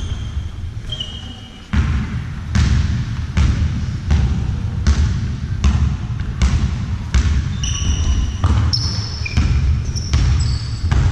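A basketball being dribbled on a hall floor, bouncing steadily a little more than once a second, with short sneaker squeaks on the court in the second half.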